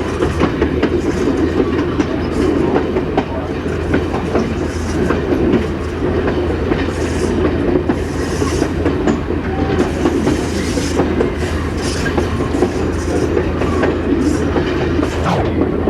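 Passenger railcar rolling along jointed track: a steady rumble with the wheels clicking over rail joints at irregular intervals, and bursts of hiss now and then.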